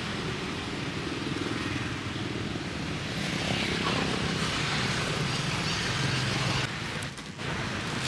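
Steady hum of motor vehicle engines in street traffic, dipping briefly about seven seconds in.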